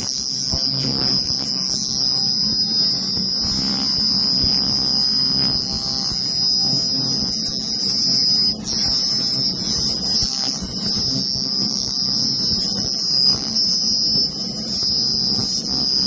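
Pulsed laser cleaner ablating the surface of engine parts: a steady high-pitched whine over a low hum and faint crackle, cutting out for a moment about eight and a half seconds in.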